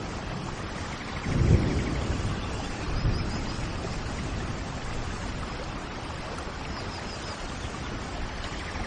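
Steady rain, with a brief low rumble about one and a half seconds in. Small birds give short groups of high chirps twice, about three seconds in and near the end.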